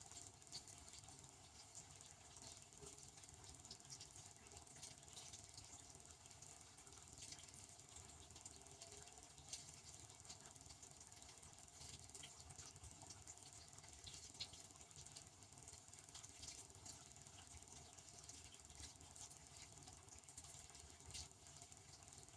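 Faint, steady patter of water spraying inside a Devanti benchtop dishwasher during its wash cycle, with many small irregular ticks.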